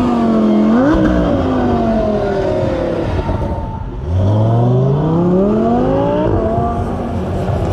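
A car engine revving: a quick blip about a second in whose pitch falls away slowly, then, after a short dip, a steady climb in pitch lasting about two and a half seconds as the car accelerates.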